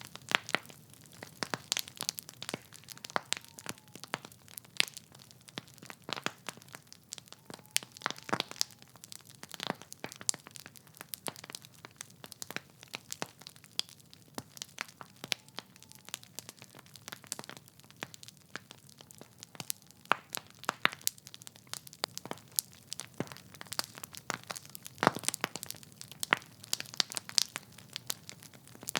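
Wood fire burning in a fireplace, logs crackling with irregular sharp pops and snaps over a soft hiss.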